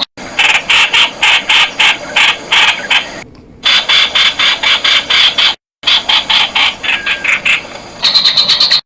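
Streak-eared bulbul calling: a rapid series of short, sharp notes, about four a second, broken by a brief pause a little after three seconds and an abrupt cut near the middle. The notes get higher and more clipped near the end.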